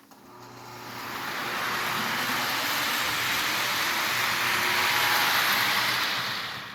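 Lionel 2338 GP-7 O-gauge diesel locomotive and its passenger cars rolling past on three-rail toy track: a steady rumble of wheels and motor that grows louder over the first couple of seconds and fades away near the end as the train passes.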